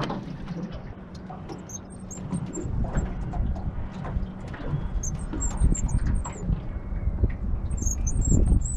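Wind rumbling on the microphone, growing stronger about two and a half seconds in, with small birds giving short, very high chirps in quick clusters, densest near the end.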